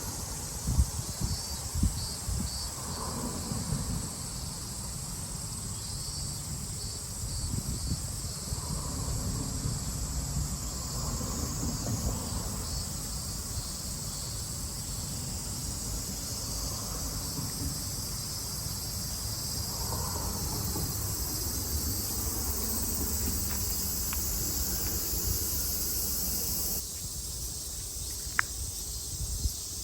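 Cicadas in summer chorusing: a steady, high, dense buzz with a low rumble underneath. The buzz changes abruptly near the end.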